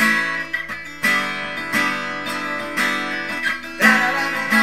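Acoustic guitar strumming slow chords, with a fresh strum at the start, about a second in and again near the end.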